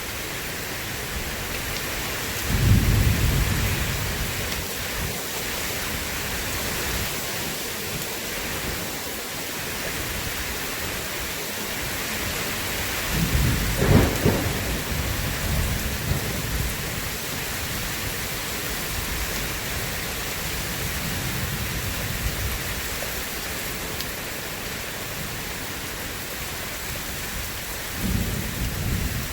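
Steady heavy rain with rolls of thunder: a rumble about two and a half seconds in, a louder one with a sharp crack around the middle, and another starting near the end.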